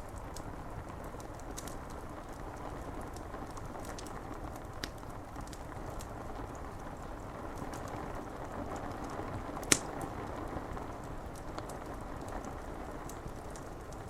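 Steady rain falling on window glass, mixed with a crackling fire: scattered sharp clicks and pops over the even hiss of the rain, one pop much louder about ten seconds in.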